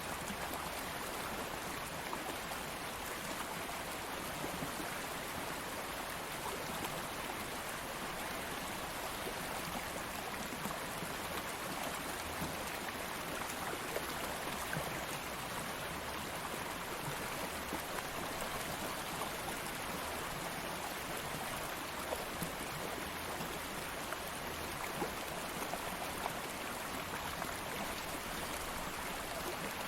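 Stream water flowing steadily over rocks, a continuous rush with small splashes and trickles through it.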